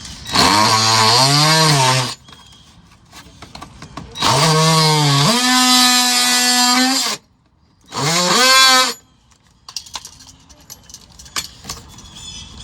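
Handheld electric power tool run in three bursts, its motor whine sliding up in pitch as it speeds up each time. The last burst is the shortest, and light clatter follows.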